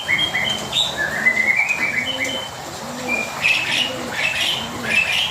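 Several songbirds singing together in short, high whistled notes and slurred chirps, with a dove's low coo repeating about once a second underneath.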